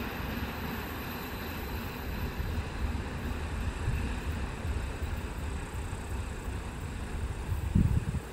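Freight train of tank cars rolling past on the rails, a steady low rumble of wagon wheels, with a brief louder thump near the end.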